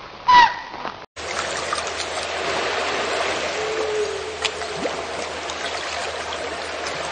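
A short animal call, then, after a brief dropout about a second in, steady running water like a stream.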